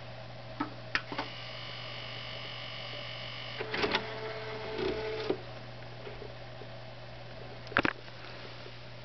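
Onkyo DR-90 DVD receiver giving off a steady low buzz when switched on. Several sharp clicks cut through it, around one second in, near four seconds and near the end.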